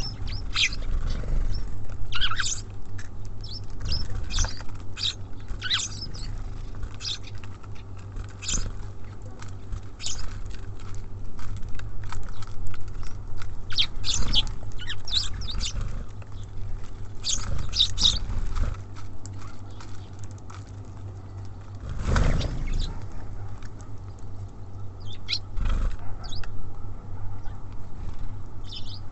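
Small songbirds feeding at a bird feeder: many quick taps and scratches of beaks and feet on the feeder and seed, with short high chirps scattered through. A louder thump comes about 22 seconds in, over a low steady hum.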